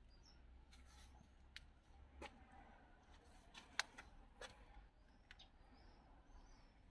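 Near silence: a low hum with a few faint, scattered clicks, the sharpest a little before the middle.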